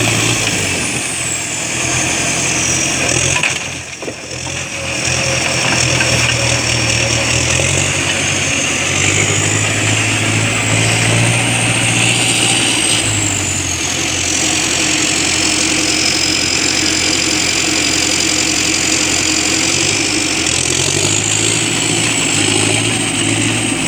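Logging skidder's diesel engine running, its revs rising and falling several times as it works, with a brief drop about four seconds in. A high whine slides down and back up alongside it.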